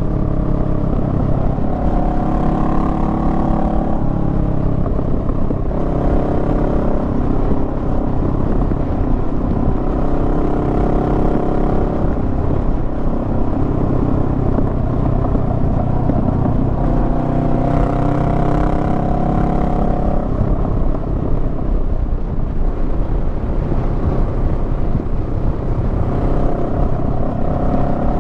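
Honda Rebel 500's parallel-twin engine running under way. Its pitch shifts up and down every few seconds with throttle and gear changes.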